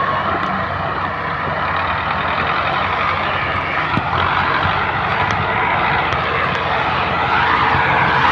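Massey Ferguson 375 tractor's diesel engine running steadily and loudly, getting a little louder near the end.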